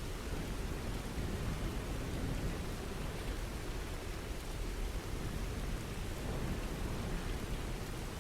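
Steady rain falling, an even hiss over a deep low rumble, swelling slightly about two seconds in.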